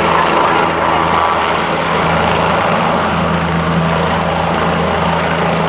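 Helicopter rotor and turbine engine running loud and steady, close by.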